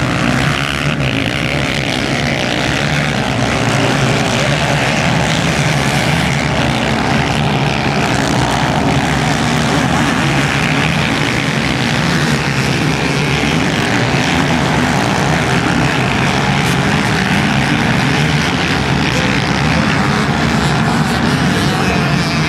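Dirt bike engines from a motocross field running together in a steady, loud drone, without clear individual revs.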